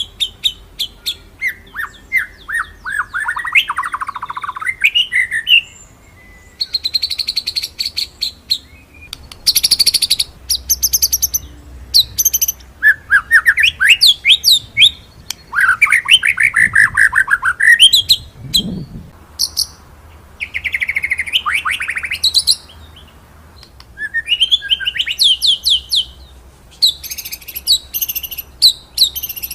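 White-rumped shama (murai batu) singing in a run of rapid phrases: fast rolling trills of high notes and sharp loud notes, with sweeping whistled runs lower in pitch, each phrase broken by a short pause.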